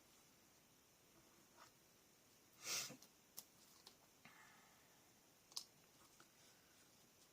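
Near silence with quiet handling of paper craft pieces on a tabletop: a short rustle a little under three seconds in and a few light clicks.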